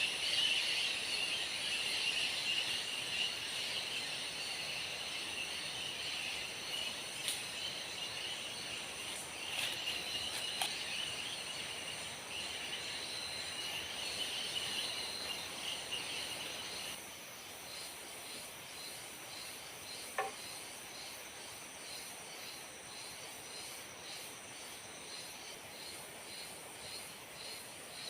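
Forest insects, crickets and similar, droning steadily in several high-pitched layers. The loudest layer stops about seventeen seconds in, leaving a thinner, higher drone. A few faint clicks or taps come in between.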